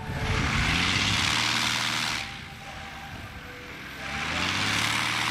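Propeller-driven piston-engine airplane passing close by, loud for about two seconds. The engine drops back, then comes loud again near the end, its pitch sliding down as it passes.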